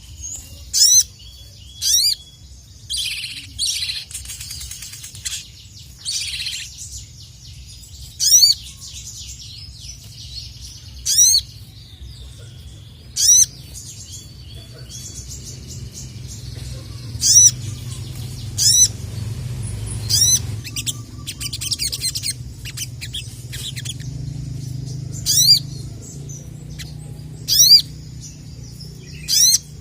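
Sogon (sogok ontong) nectar-feeding songbird singing: loud, sharp high-pitched notes repeated every second or two, with stretches of rapid twittering in between. A faint low steady hum runs underneath.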